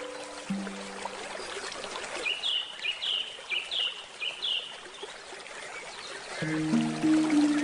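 Flowing stream with steady water noise and a small bird calling a quick run of about five short chirps in the middle. Handpan notes ring out at the start and come back in near the end.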